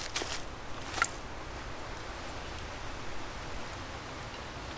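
Steady wind noise outdoors in a windy wood, with a single sharp click about a second in.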